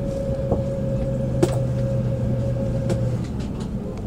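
Shinkansen bullet train heard from inside the passenger cabin as it slows into a station: a steady running rumble with a steady hum that stops about three seconds in, and a few sharp clicks.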